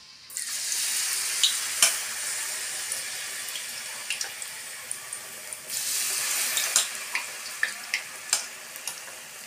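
Battered tempe mendoan (tempeh in flour batter) hitting hot oil in a wok and sizzling hard, with scattered sharp pops and crackles. The sizzle sets in sharply at the start, eases off and swells again about six seconds in.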